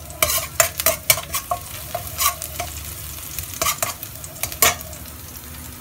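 Chopped garlic and chili sizzling in hot oil in a wok while a metal spatula scrapes and clicks against the pan, in two spells of stirring: one near the start and another about four seconds in.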